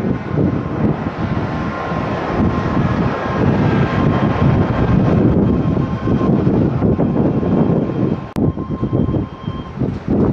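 Jet airliner engines running loud: a dense rumble with a thin steady whine above it.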